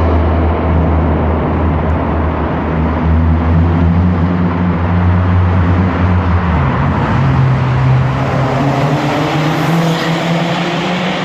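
Car engine running loud at a steady low pitch; about two-thirds of the way through, the revs step up and then climb slowly.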